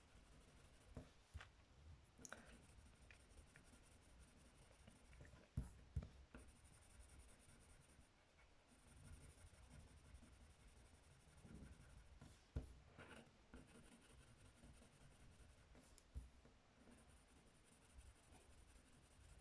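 Faint scratching of a pen writing letters on paper card, with a few light taps and clicks scattered through.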